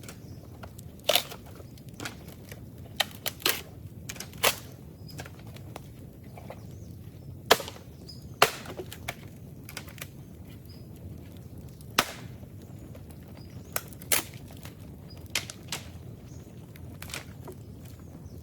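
Bonfire of old bamboo pieces crackling, with irregular sharp pops and cracks as the bamboo bursts in the heat, over a steady low rush.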